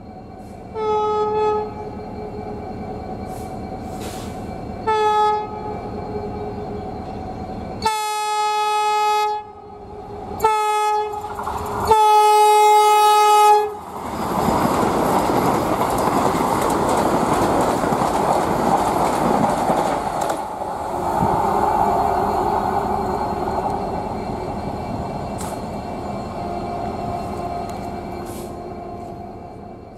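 Vande Bharat Express electric trainset sounding its horn in five single-pitch blasts as it approaches: two short ones, a longer one, another short one, then a long one. About 14 seconds in, the train passes close at speed with a loud rushing and rail rumble, which slowly fades as it goes away.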